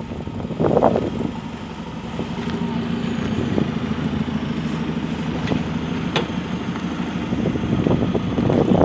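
JCB 3CX backhoe loader's diesel engine running steadily, with a brief louder surge about a second in and the sound building up again near the end.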